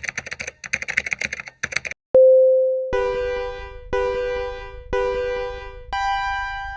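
Edited-in sound effects: about two seconds of rapid clicking like typing, a single chime that fades, then three one-second electronic beeps a second apart and a fourth, higher-pitched beep, like a countdown.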